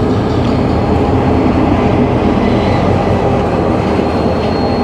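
Diesel locomotive of the Te Huia passenger train running as it pulls into the platform and passes close by, a loud steady rumble. A thin high squeal sets in near the end as the train slows.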